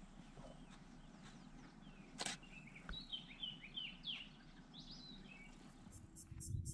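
Faint bird calls: a run of short, chirping notes from about three to five seconds in, over a light outdoor hiss, with a single click a little before them. Near the end a rapid, even, high pulsing starts.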